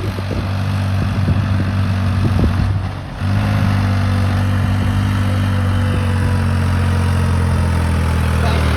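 A vehicle engine idling steadily, with a few short knocks in the first seconds and a brief drop about three seconds in before the steady running picks up again.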